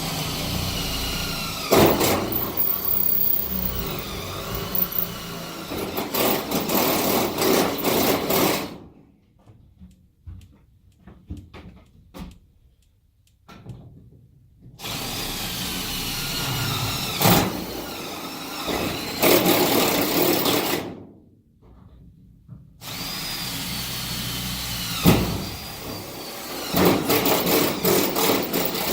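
Cordless power drill boring holes in three long runs, its motor pitch dipping and recovering as it bites, with short pauses of light knocks between runs.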